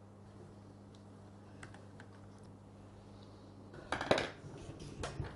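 Light clicks and taps of metal parts being handled while a Bosch GSH 5 demolition hammer is reassembled, with a louder clatter of parts about four seconds in and another about five seconds in.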